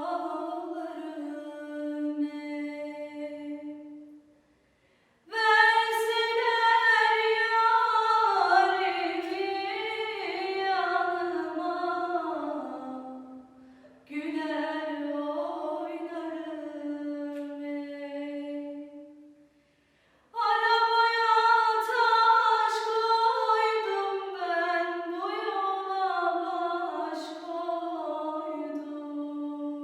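A woman singing a Turkish folk song (türkü) unaccompanied, in long ornamented phrases with three short pauses for breath between them.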